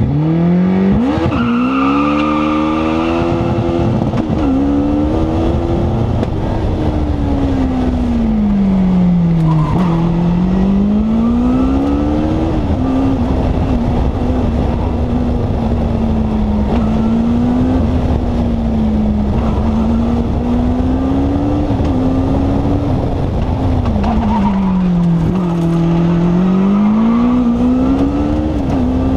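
Sylva Striker's turbocharged Honda CBR1100 inline-four engine, heard from the open cockpit under hard acceleration. It launches and climbs through quick upshifts in the first few seconds, drops in pitch about ten seconds in and again near the end as the car slows, then pulls back up each time, with a steadier note in between and a constant rush of wind and road noise underneath.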